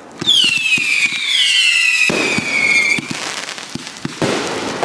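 Fireworks: two overlapping shrill whistles fall slowly in pitch for about three seconds over a run of sharp crackling pops. The pops and crackle keep going after the whistles cut off.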